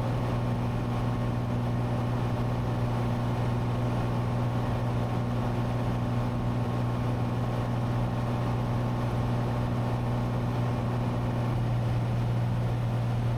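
Steady cabin drone of a Cessna 182T in cruise: the six-cylinder Lycoming IO-540 engine and propeller running at constant power, heard as a strong, even low hum. A fainter higher tone in the drone drops out near the end.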